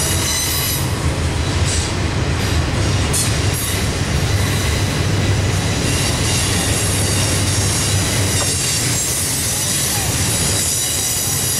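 Freight train of intermodal container and double-stack well cars rolling past on a curve: a steady heavy rumble of steel wheels on rail, with faint high-pitched flange squeal from the wheels in the curve.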